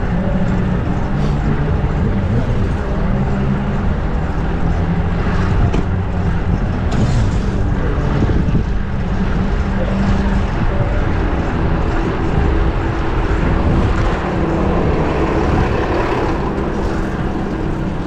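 Street traffic: a motor vehicle's engine running close by with a steady low hum, over a constant rush of road noise.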